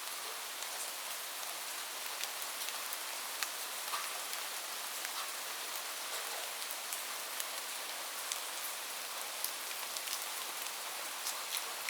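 Steady rain falling: an even hiss with scattered sharper ticks of individual drops hitting a surface.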